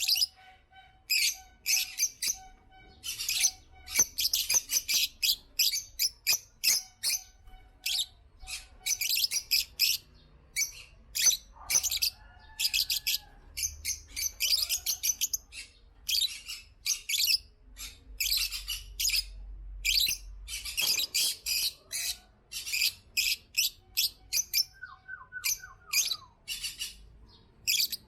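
African lovebirds chirping: rapid runs of short, shrill, high-pitched chirps with brief pauses between.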